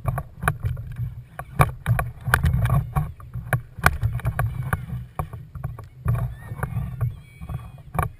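Water sloshing and slapping against a kayak hull under a constant low rumble, with many irregular sharp knocks and clicks.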